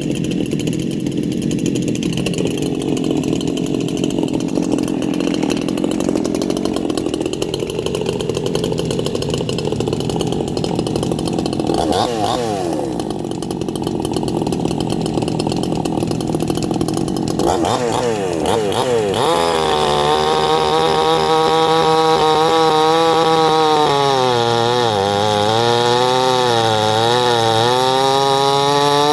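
A 58cc Chinese two-stroke chainsaw running hard, its engine speed rising and falling. Its carburettor is set a little rich. About two-thirds of the way in, the engine note becomes clearer and wavers up and down.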